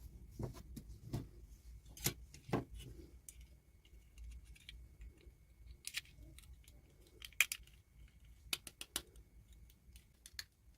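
Irregular clicks, taps and small snaps of miniature plastic toy pieces and packaging being handled and opened by hand. The sharpest clicks come about two seconds in and again between seven and nine seconds.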